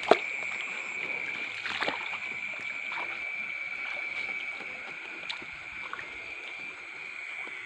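Water sloshing and splashing in a shallow stream, with a few brief knocks and splashes, over a steady high-pitched chorus of night insects.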